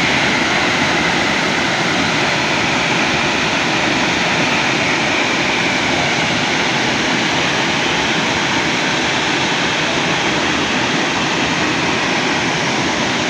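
Steady noise of falling water from a waterfall, unchanging throughout.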